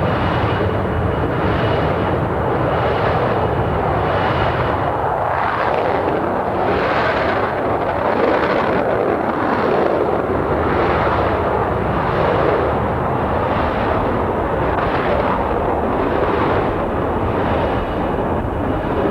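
Jet noise from a B-1B Lancer's four afterburning General Electric F101 turbofans: a loud, continuous, dense noise, with a regular pulsing in the upper register about every three-quarters of a second.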